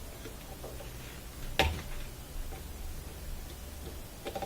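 One sharp click about a second and a half in, then a few light clicks near the end, from tools and parts being handled at the dishwasher motor's capacitor terminals.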